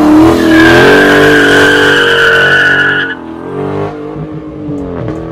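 Car engine revving, with a loud, steady tire squeal over it for about three seconds; the squeal then stops and the engine carries on more quietly.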